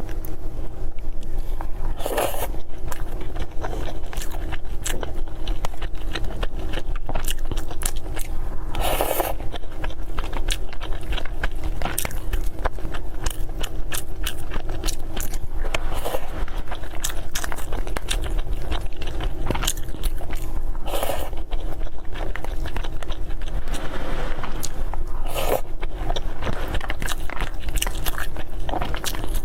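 A person eating close to the microphone: chewing and biting sticky glutinous rice and meat, with many small crisp mouth clicks and a few louder smacks, over a steady low hum.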